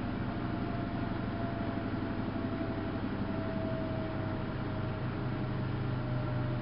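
Samsung WF71284 washing machine running: a steady motor hum with a faint whine that drifts slightly lower.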